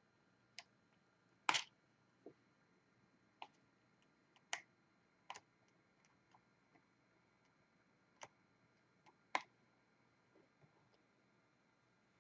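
Light, irregular clicks and taps from diamond painting: a drill pen picking up resin drills and pressing them onto the canvas, about a dozen over the stretch, the loudest about one and a half seconds in.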